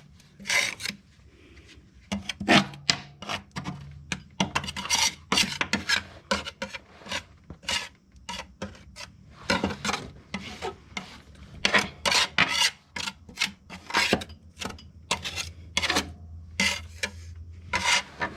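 Hand deck scraper scraping caked wet grass off the underside of a lawn mower deck in quick, repeated rasping strokes, about two a second.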